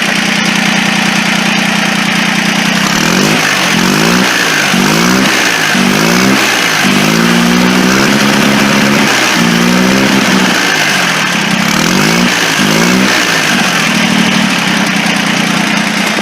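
Turbocharged three-cylinder Mitsubishi diesel in a modified garden tractor, idling, then revved in about eight short blips that rise and fall, settling back to idle near the end.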